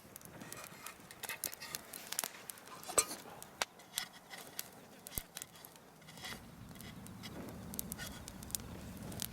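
Light clicks, taps and clinks of camp cookware and utensils being handled, with a sharper knock about three seconds in. A low steady rumble comes in after about six seconds.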